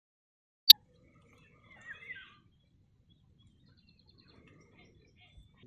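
A single sharp click under a second in, then faint outdoor ambience with a few wild birds chirping, clearest about two seconds in.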